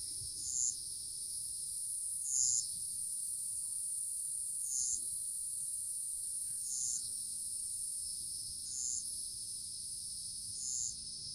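Crickets and other insects: a steady high-pitched drone, with a short, louder chirp repeating about every two seconds.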